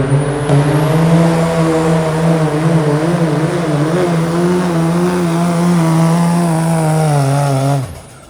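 Open-class diesel pickup's engine running flat out while pulling the sled: a loud, steady drone that wavers slightly in pitch, cutting off abruptly near the end.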